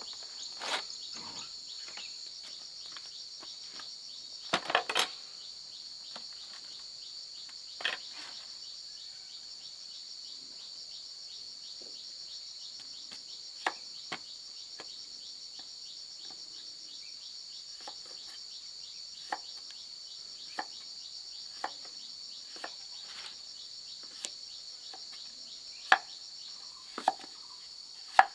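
Steady high-pitched insect chorus, with scattered sharp knocks and taps through it: a small cluster about five seconds in and several louder single knocks near the end.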